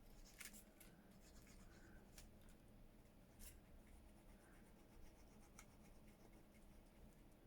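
Faint scratching and rubbing of a craft tool on paper, with a few light ticks, as something is worked round the edges of a paper flower.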